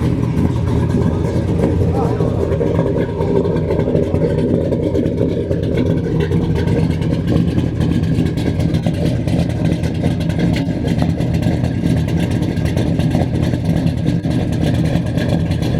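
1966 Ford 7 Litre's 7-litre V8 running steadily with a low rumble.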